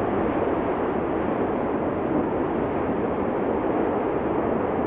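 Steady, unbroken roar of the erupting Cumbre Vieja volcano, even in level with no distinct blasts.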